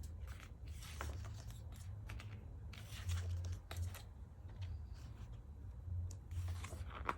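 Paper rustling and pages turning as an album photo book is leafed through, in short scattered rustles over a steady low hum.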